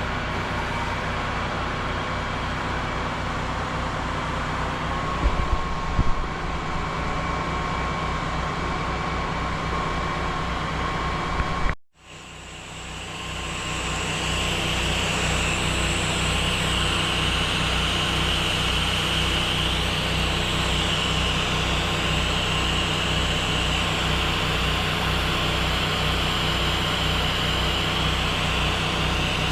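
Pressure washer's engine running steadily, with the hiss of water spraying onto the building wall. The sound drops out abruptly for a moment about twelve seconds in, then comes back with the spray hiss more prominent.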